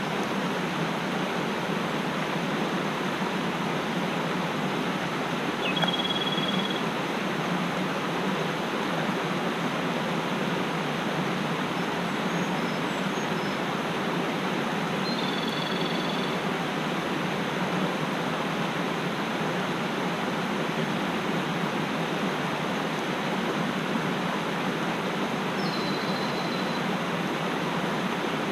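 Mountain stream rushing steadily, with three brief high bird calls.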